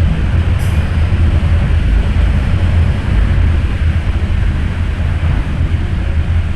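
MTR M-Train electric multiple unit running, a steady deep rumble heard from aboard the train, with a brief high hiss about half a second in.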